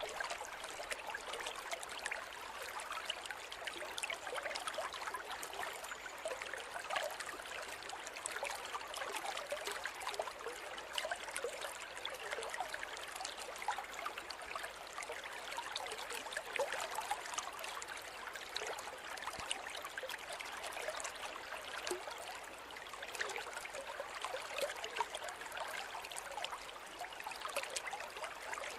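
Forest river flowing steadily over rocks: a continuous rushing and babbling of water with many small splashes and gurgles.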